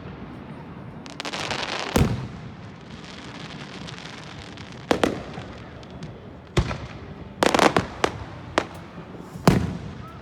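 Fireworks going off: separate sharp booms every second or two. A crackling shower runs around the first boom, and a quick cluster of bangs comes about three quarters of the way in.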